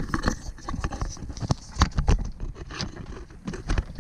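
Irregular knocks, clicks and scrapes of gear being handled in a small paddle boat, about a dozen sharp strikes of varying loudness.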